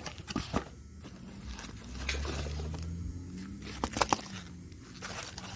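Cardboard packaging being opened and handled: rustling with several sharp clicks and taps, a cluster of them about four seconds in. A low hum comes in for a second or so in the middle.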